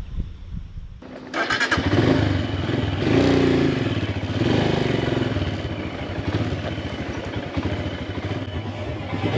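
Motorcycle engine running, coming in suddenly about a second in and then holding steady.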